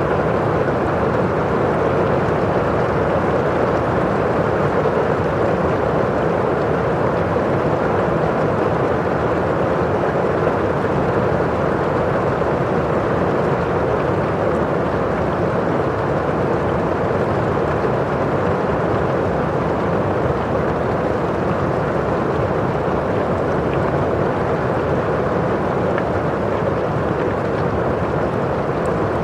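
Steady rain on window glass, with rain falling outside: an even, unbroken rushing noise.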